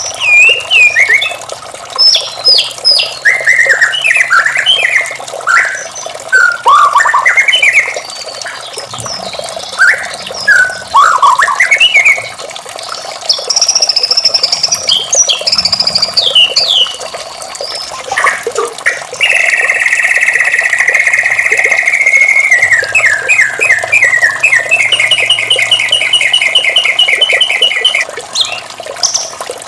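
White-rumped shama (murai batu) singing a long, varied song of quick whistled phrases that sweep up and down in pitch. About two-thirds of the way in it switches to a long, fast trill of rapidly repeated notes.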